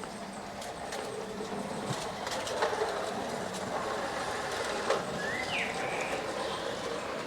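G-scale model train running on garden track: its electric motor gives a steady hum while the wheels click over the rail joints.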